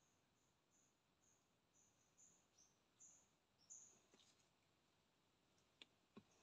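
Faint series of short, high-pitched bird calls, about two a second, growing louder and ending on a slightly lower note, over near-silent swamp-forest quiet; a few faint clicks near the end.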